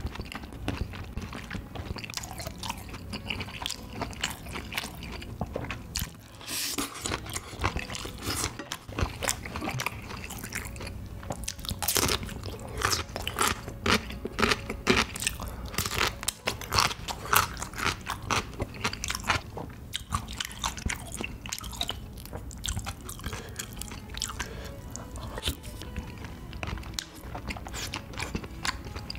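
Close-miked eating sounds: chewing mouthfuls of tteokbokki, with crisp crunching bites of yellow pickled radish (danmuji) through the middle.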